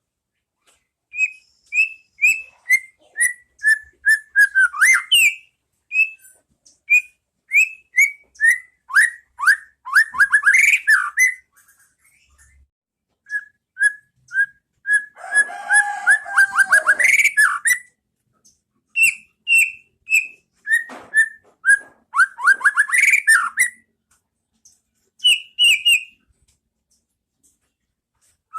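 White-rumped shama singing: phrases of clear whistled notes, many falling in pitch, strung into quick trills, with a harsher, rasping passage about halfway through and short pauses between phrases.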